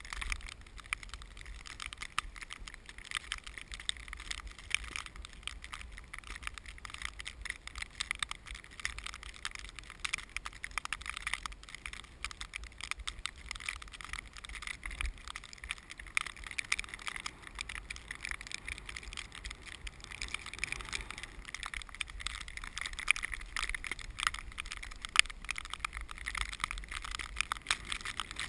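Strong wind buffeting the microphone: a steady low rumble with constant crackling and gusts that rise and fall.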